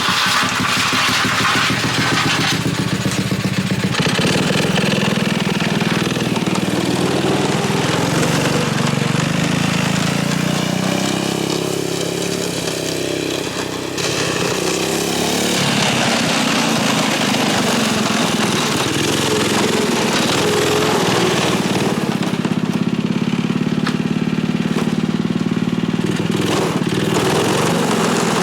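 Small Tecumseh H35 single-cylinder four-stroke engine running steadily. Its speed rises and falls, and it eases off a little about halfway through before picking up again.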